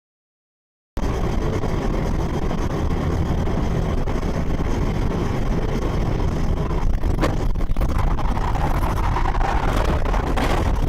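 Steady low rumble of a moving car's engine and tyres, picked up by a dashcam. It starts abruptly about a second in and has a couple of brief clicks later on.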